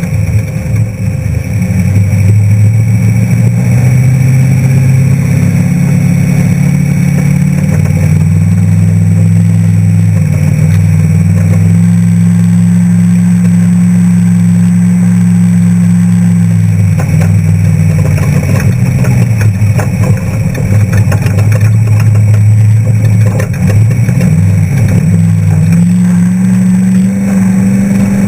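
Off-road trophy truck's engine running hard under load, its pitch holding for a few seconds at a time, then rising and falling with throttle and gear changes.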